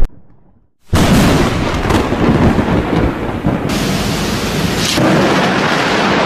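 After a moment of silence, a sudden loud thunderclap from a nearby lightning strike about a second in, followed by thunder and heavy rain.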